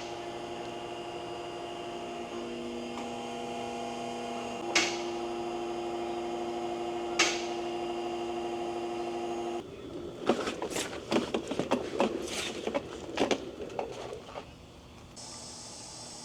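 A steady hum of several held tones with two sharp clicks, then about five seconds of irregular clicking and knocking of hand tools on metal parts, ending in a faint steady hiss.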